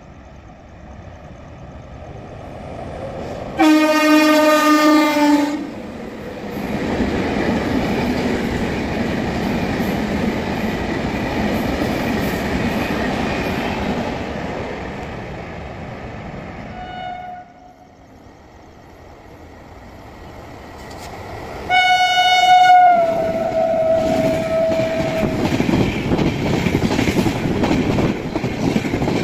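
The Shatabdi Express sounds its locomotive horn in one blast of about two seconds as it approaches through a station. Its coaches then pass at speed with a loud, steady running noise. After a cut, a second express train sounds its horn as it comes close, the pitch dropping slightly as it goes by, and its coaches pass at speed.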